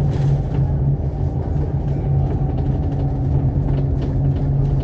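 Alexander Dennis Enviro500 MMC double-decker bus running steadily, its engine droning low with road noise, heard from inside the passenger cabin.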